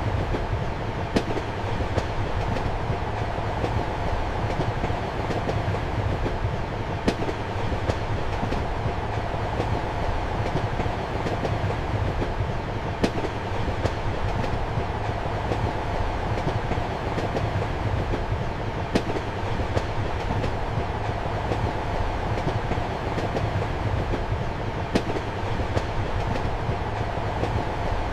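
Passenger train running, heard from inside a compartment: a steady rumble and hum, broken by sharp clicks of the wheels over rail joints. The loudest click comes about every six seconds.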